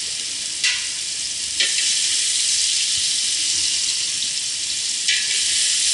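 Caramelized aubergine cubes sizzling in hot fat in a large pot, a steady hiss, with three short metal clinks as a wire spider skimmer scoops them out into a steel bowl; the sizzle gets a little louder after the second and third clink.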